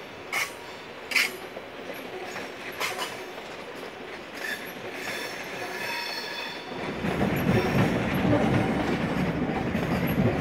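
Train wheels on rail: a few sharp clicks over the track, then a thin high wheel squeal, and from about seven seconds in a louder, heavier rumble as the railway cars roll close by.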